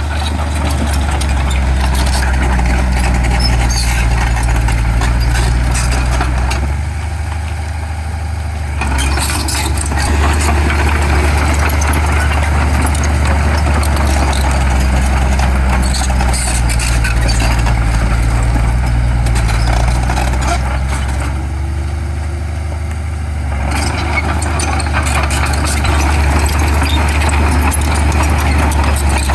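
Heavy diesel engine of earthmoving equipment running steadily under load, with a deep steady hum and clatter above it that eases off briefly twice.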